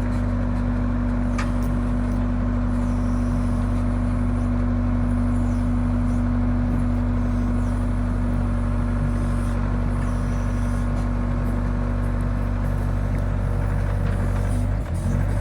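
Excavator's diesel engine running steadily with a low, even drone, its note dipping briefly near the end.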